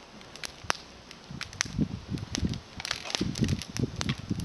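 Small twig campfire of climbing-rose prunings crackling, with sharp scattered pops. From about a second and a half in, irregular low thumps and rustling join it, up close.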